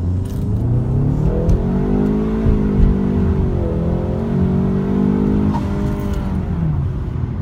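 2015 Ford Mustang EcoBoost's tuned 2.3-litre turbocharged four-cylinder under full-throttle acceleration from a standstill to 60 mph, heard from inside the cabin. The revs climb, dip once at an automatic upshift about three and a half seconds in, climb again, then fall away near the end as the throttle eases off.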